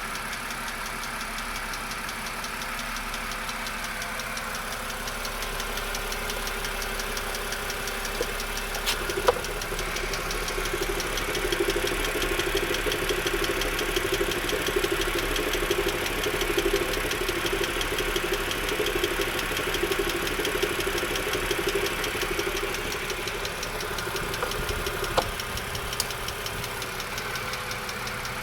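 BMW N52 inline-six engine idling with a fast, even ticking, which the owner takes for valve lifter tick. About a third of the way in a louder hum comes in with a click, and it drops away with another click near the end.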